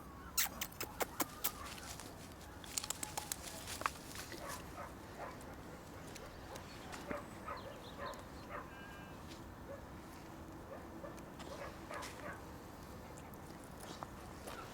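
Six-week-old braco puppies moving about and making small sounds. A quick run of sharp clicks and snaps comes in the first four seconds, then scattered faint little noises follow.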